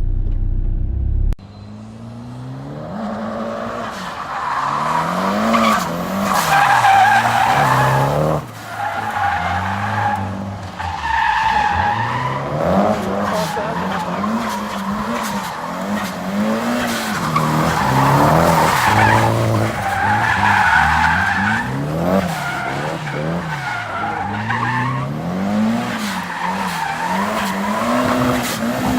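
Drift car's engine revving up and down again and again as it slides, with its tyres squealing.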